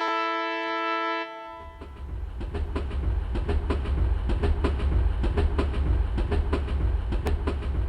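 Train horn sounding a held chord for about a second, then a train running with a steady low rumble and the regular clickety-clack of wheels over rail joints.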